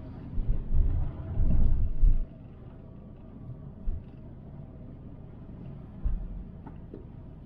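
Steady road and engine noise heard from inside a Toyota Sienna minivan as it drives along. There is a loud, low rumbling of bumps for the first two seconds, then single short thuds about four and six seconds in.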